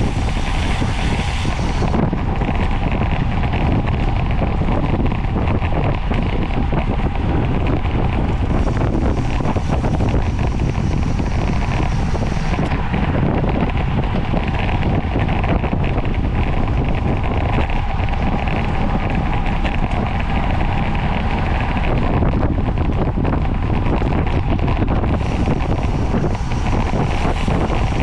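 Steady rush of wind on the microphone of a camera carried on a bicycle moving at speed.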